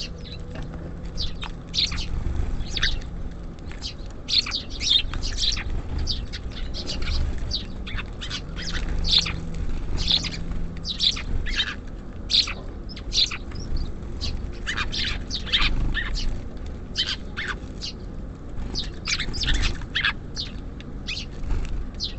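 Small songbirds such as sparrows and tits chirping at a bird feeder: many short, high chirps in quick succession, over a low steady rumble.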